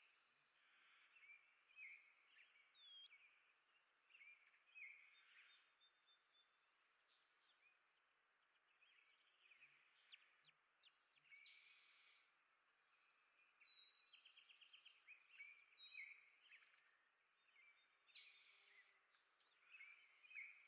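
Faint chorus of small birds chirping and calling, short notes coming and going, with a quick trill of repeated notes about two-thirds of the way through.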